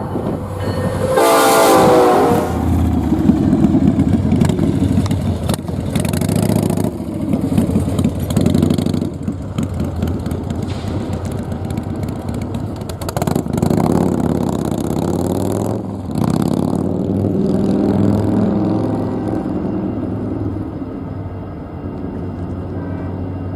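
Locomotive horn sounding and dropping in pitch, ending about two and a half seconds in, followed by a train rumbling past.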